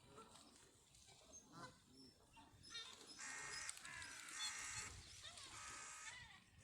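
Geese honking: a run of four harsh calls, each under a second long, starting a little before halfway through.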